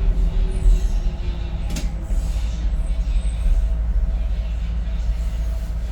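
Docklands Light Railway train running, heard from inside the carriage: a steady low rumble, with a motor whine gliding down in pitch during the first second and a single sharp click about two seconds in.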